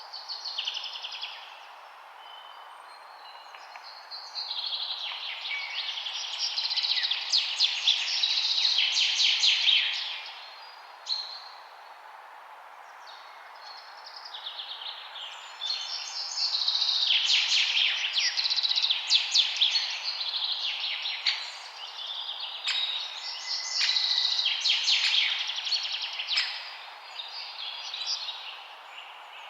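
Songbirds singing in bouts of rapid, high chirps and trills, with quieter gaps between the bouts, over a steady background hiss.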